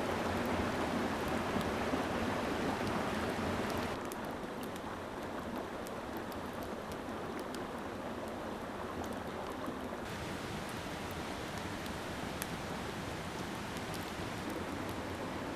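Steady rushing of a mountain stream, with scattered faint sharp ticks over it. The wash steps down slightly and turns duller about four seconds in.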